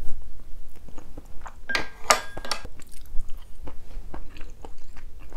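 Close-miked mouth sounds of a person eating soft abalone rice porridge: wet chewing and lip smacks, with a denser, louder run of smacking about two seconds in.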